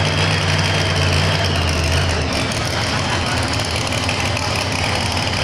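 Top fuel pulling truck's engine running with a deep, steady note that turns rougher about a second and a half in.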